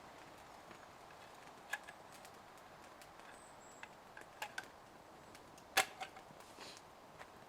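A few short, sharp knocks and clicks over a faint steady hiss, the loudest knock about six seconds in.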